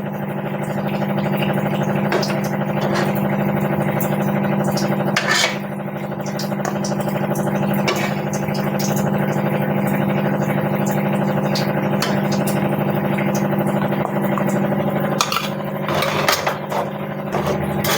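Metal ladle clinking against steel cooking vessels a few times as cooked chicken is scooped out of the broth into another vessel. Underneath is a steady electric motor hum.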